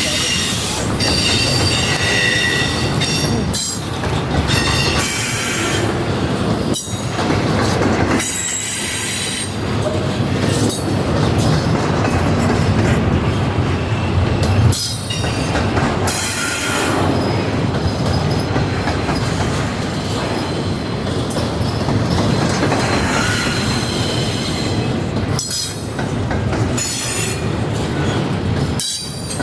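Norfolk Southern freight cars rolling past close by, a steady heavy rumble of wheels on rail. High-pitched wheel squeal comes and goes throughout.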